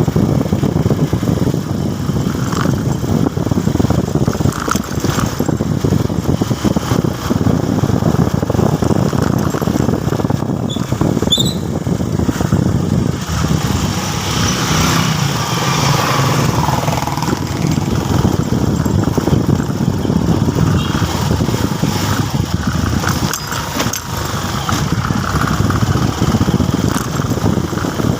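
Motorcycle running steadily while being ridden on the road.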